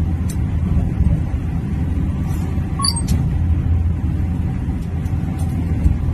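Steady low rumble of a moving train, with a few faint clicks about halfway through.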